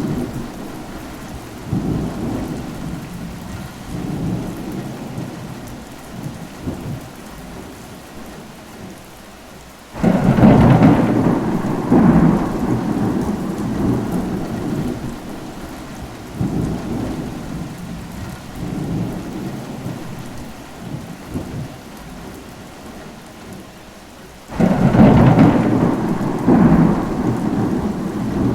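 Steady rain with thunder: a sudden thunderclap about ten seconds in and another near the end, each rumbling away over several seconds.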